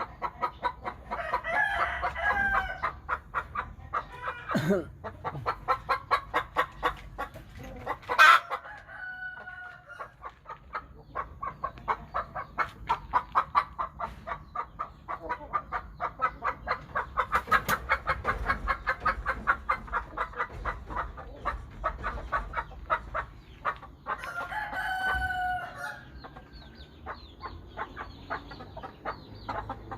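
Thai-Vietnamese hybrid chickens clucking in quick repeated calls throughout. A rooster crows three times: about a second in, near 8 seconds with the loudest moment, and again near 25 seconds.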